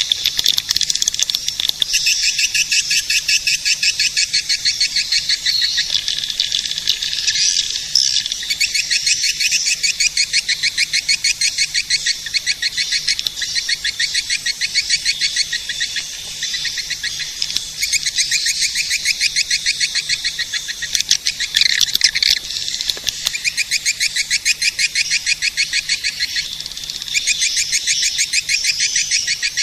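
Swiftlet lure calls: a dense, continuous twittering of rapid, high chirps, many overlapping, played as a caller sound to attract swiftlets to nest in a swiftlet house.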